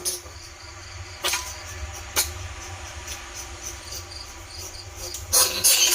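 Recorded greater bandicoot rat calls played as a lure: a quieter stretch of faint, rapid high chirping with two sharp clicks, then a burst of loud, harsh squealing near the end.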